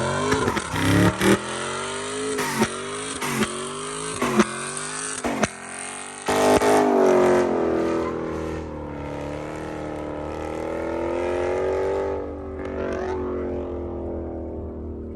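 A performance car's engine revs in quick repeated blips, with sharp cracks or pops between them, for about the first six seconds. It then runs at a steadier, slowly wandering pitch.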